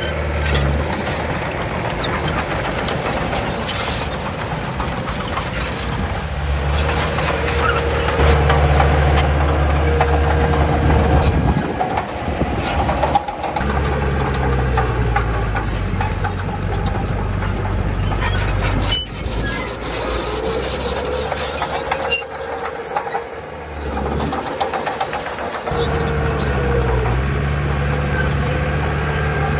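Diesel engine of a Komatsu D31 bulldozer working, its pitch and load shifting every few seconds as it pushes soil, with a higher whine running over it.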